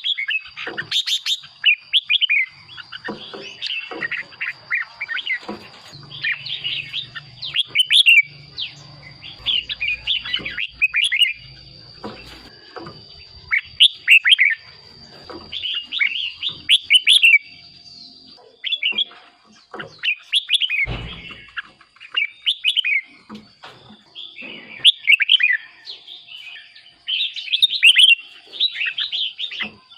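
Red-whiskered bulbul singing: short, quick whistled phrases repeated every second or two. A faint steady high tone runs behind them.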